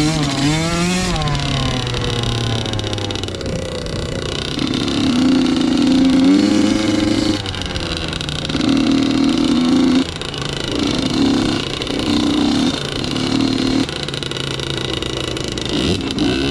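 Two-stroke motocross bike engine being ridden hard. The revs climb and fall with the throttle and gear changes, in repeated full-throttle pulls a second or two long with short drops between them.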